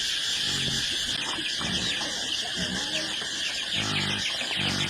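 Steady high-pitched insect chorus trilling, with a few short, low-pitched calls cutting in every second or so.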